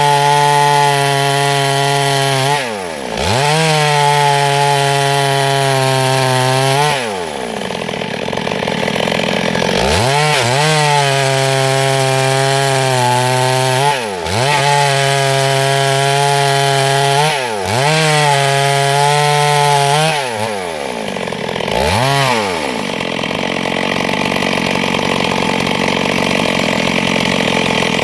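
Two-stroke gasoline chainsaw running at high revs while cutting wood. The engine speed dips and climbs back up about six times, then holds steadier near the end.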